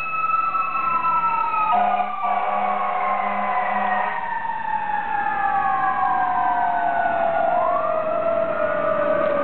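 Sirens on a Ferrara fire engine sounding as it responds, their pitch sliding slowly down, with a second wail rising near the end. A steady air-horn blast lasts about two seconds, starting about two seconds in.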